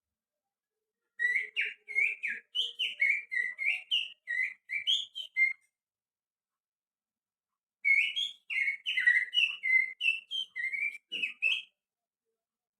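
Finger whistling that imitates a white-rumped shama's song: two runs of quick, jumping warbled notes, the first starting about a second in and the second near the eight-second mark, with a pause of about two seconds between them.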